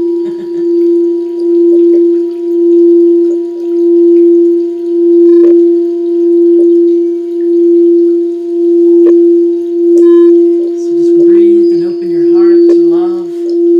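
Singing bowl ringing with one steady tone and fainter overtones, its loudness swelling and fading about once a second. Near the end a voice briefly hums a low, wavering line along with it.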